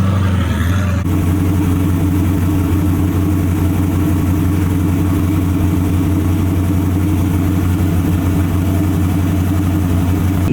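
Loud drift-car engine idling steadily at an unchanging pitch, with a fast, even pulsing of its firing strokes through the exhaust.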